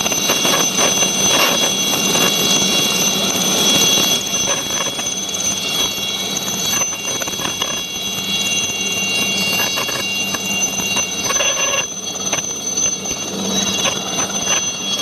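Helicopter running for takeoff: a steady high whine over dense engine and rotor noise.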